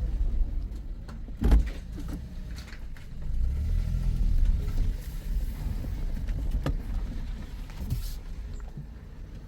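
Toyota car with an MMT semi-automatic gearbox running, a steady low rumble that swells for a second or two about midway. A thump comes about a second and a half in, and a few sharp clicks follow later.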